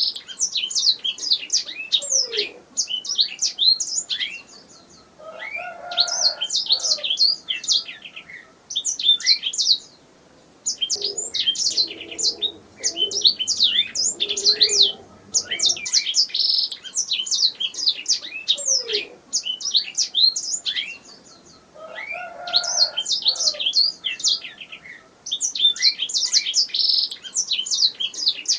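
Domestic canary singing: long phrases of fast, high chirps and rolling trills, broken by short pauses every few seconds.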